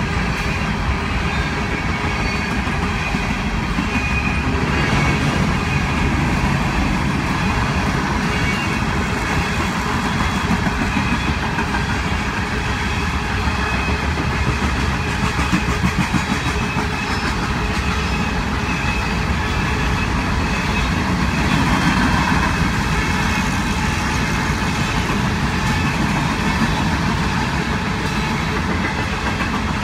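Empty coal hopper cars of a freight train rolling past in a steady rumble of steel wheels on rail.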